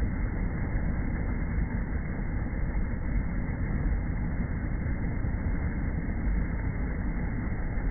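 Steady low rumble of a vehicle, with no clear engine note standing out.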